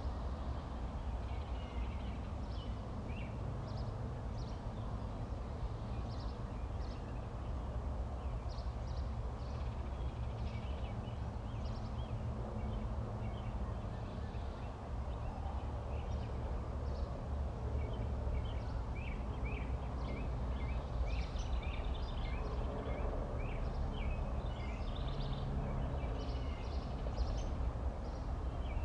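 Birds chirping, many short high calls that come thicker in the second half, over a steady low rumble.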